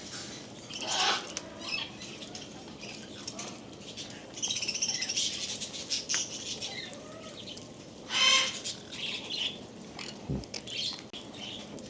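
Pet parrots chattering and calling while they feed: a string of high chirps and harsher squawks, with the loudest call about eight seconds in.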